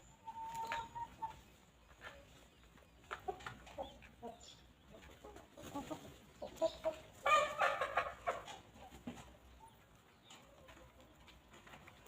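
Hens clucking in short, scattered calls, with a brief held note near the start and a louder burst of clucking about seven seconds in.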